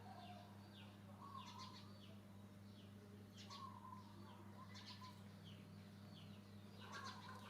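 Faint bird chirping, short high notes sweeping downward and repeating every second or so, with a few lower wavering calls, over a steady low hum.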